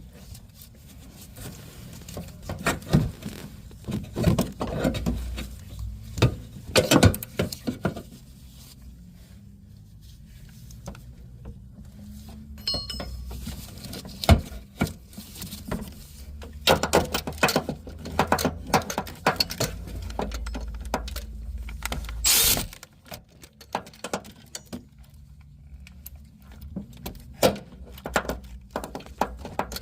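Metal hand tools working on an engine's belt tensioner and pulleys: irregular clinks and knocks of a wrench and socket on metal, some ringing briefly. A low steady hum runs underneath and stops about three-quarters of the way through.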